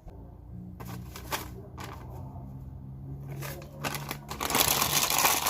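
Kitchen cooking sounds: a few knocks and taps of utensils and cookware over a steady low hum, then a loud hissing rush for about a second near the end.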